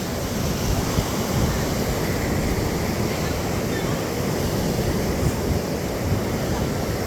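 Ocean surf washing onto a sandy beach in a steady rumble, with wind buffeting the microphone.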